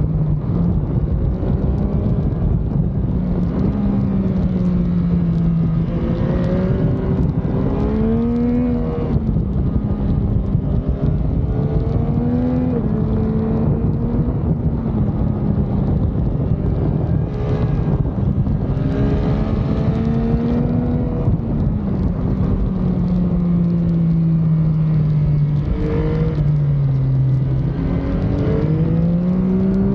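Motorcycle engine running under way, its pitch climbing and falling several times with throttle and gear changes, over a continuous rush of wind noise.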